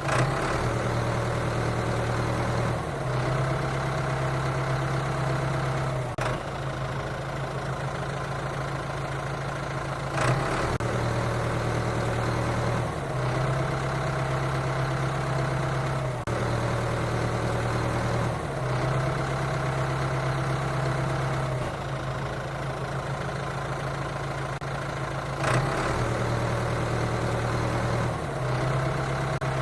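Heavy vehicle engine sound effect running steadily, its low pitch stepping between two levels every few seconds, with a few sharp clicks.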